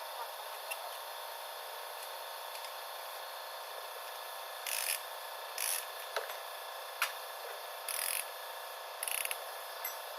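Hand-tool work: four short rasping, scraping strokes and a few sharp clicks over a steady hiss.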